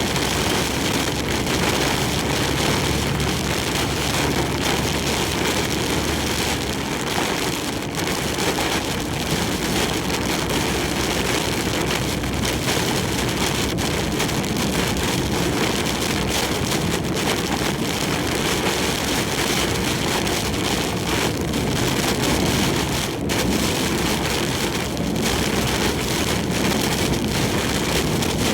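Heavy typhoon rain and wind hitting a large truck as it drives on the highway: a dense, steady rush of noise, with a few brief harder gusts or splashes.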